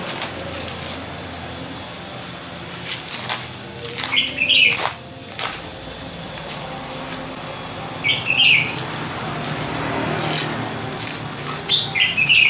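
A small bird chirping in three short bursts a few seconds apart, over scattered crackles and clicks from plastic wrap being handled and peeled.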